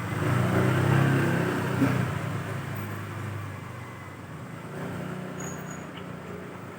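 A road vehicle's engine, loudest over the first two seconds and then fading away, with a smaller swell about five seconds in.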